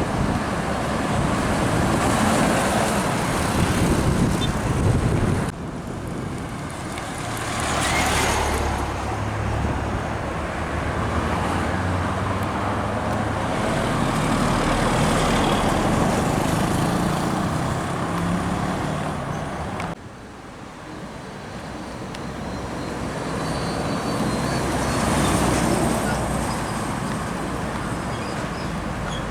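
Heavy trucks driving past on a busy road: diesel engines running low and tyre noise swelling as each one goes by. The sound breaks off abruptly twice, about five seconds in and about twenty seconds in.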